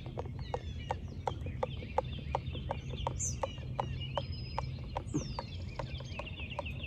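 A utensil clinking against the side of a cup in a steady rhythm of about three taps a second while something is stirred. Birds chirp in the background.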